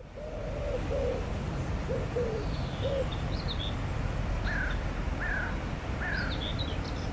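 Birds calling over a steady low background rumble. A run of low notes, about two a second, fills the first three seconds. After that come three short falling notes higher up and scattered high chirps.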